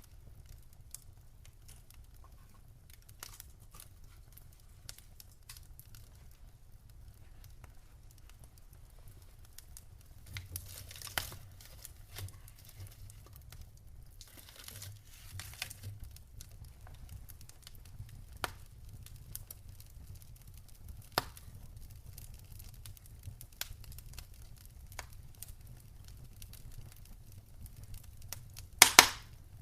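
Wood fire crackling: scattered small pops and snaps with a few louder ones, the loudest a short burst near the end, over a low steady rumble.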